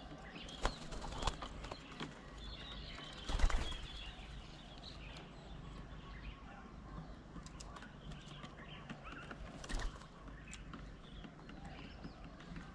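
Birds at a bird table: a few sharp taps and knocks, the loudest about three and a half seconds in, as birds land, hop and peck on the table, with faint bird chirps between.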